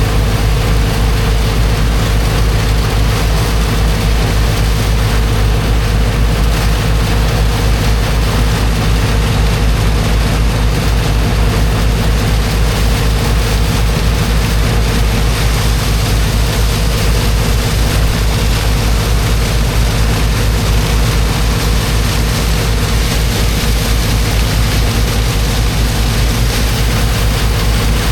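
Engine of a high-pressure water pump running steadily at constant speed, under the continuous rush of its water jet blasting into the sand.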